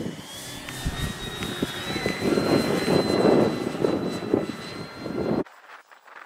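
Electric motor of an E-flite Draco RC model plane whining, its pitch climbing as the throttle comes up and then holding, with strong wind buffeting the microphone. Both cut off abruptly near the end.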